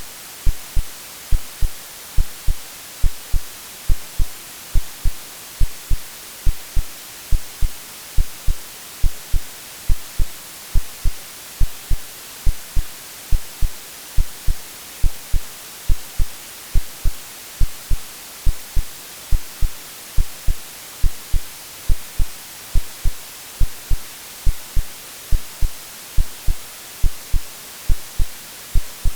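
Synthetic heartbeat sound: regular low double thumps, a little over one beat a second, over a steady hiss of white noise.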